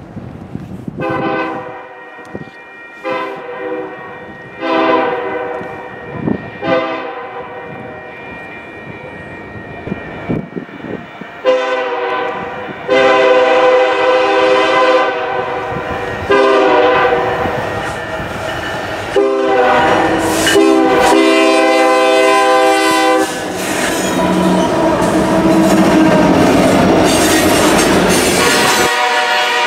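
Union Pacific rock train's locomotive horn sounding a chord of several notes in two rounds of long and short blasts, the second round much louder as the train draws close. The train then rumbles past, with a steady roar of wheels and cars on the rails.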